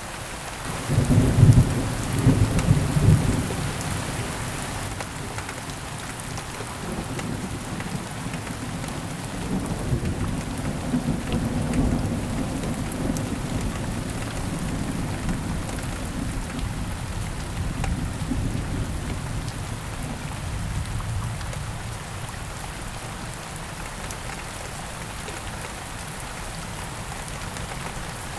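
Steady rain with a thunderclap about a second in, then long low rolling thunder that swells again after about ten seconds and dies away, leaving only the rain.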